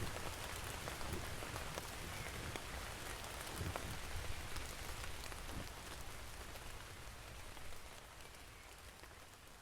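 Steady rain falling in a storm, a dense hiss of drops with scattered sharper individual drop hits. It gradually gets quieter toward the end.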